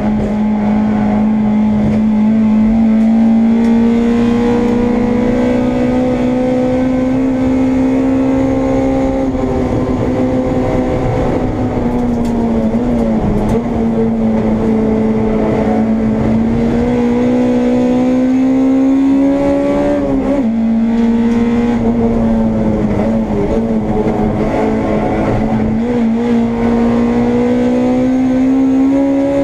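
Honda Integra race car's engine under hard load, heard from inside the cockpit. Its pitch climbs slowly and drops suddenly a few times at gear changes, most sharply about two-thirds of the way through.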